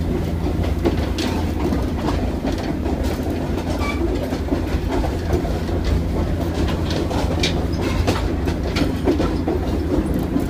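Skunk Train passenger car rolling along, heard from the open gangway between cars: a steady low rumble of wheels on track with frequent clanks and rattles.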